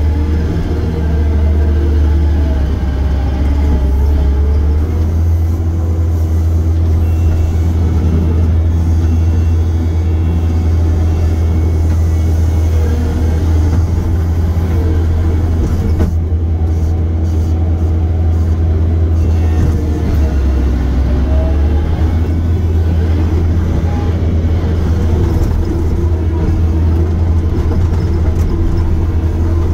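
Diesel engine of heavy earthmoving equipment running steadily with a loud low drone. Its pitch shifts slightly about five seconds in and again about two-thirds of the way through, as the machine works.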